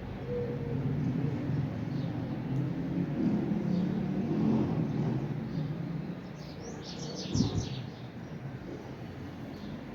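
Small birds chirping, with a quick run of high chirps about seven seconds in, over a low rumble like distant traffic that eases off after about six seconds; a single soft thump near the end of the chirping.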